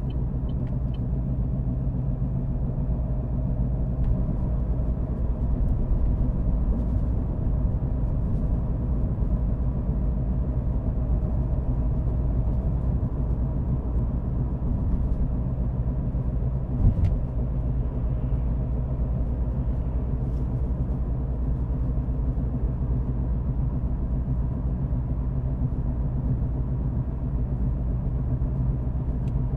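A car driving, its engine and tyre noise making a steady low rumble, with a single bump about seventeen seconds in.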